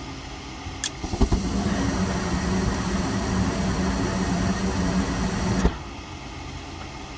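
Gas furnace's gas valve clicking open and the burners lighting with a few soft knocks, then burning steadily with a low hum for about five seconds before cutting off suddenly. This is a failed ignition try in the furnace's retry cycle, which the technician suspects comes from the blower motor or possibly a sensor.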